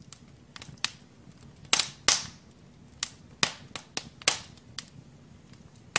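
Firewood burning in a fireplace insert's firebox, crackling with irregular sharp pops, about a dozen, over a low steady rumble of the fire.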